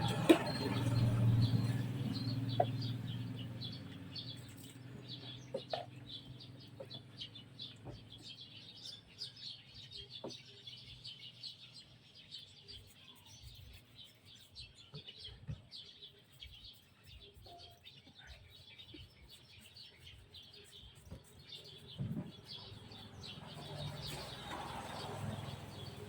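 Small birds chirping repeatedly, with scattered light clicks and knocks. A low hum fades out over the first few seconds.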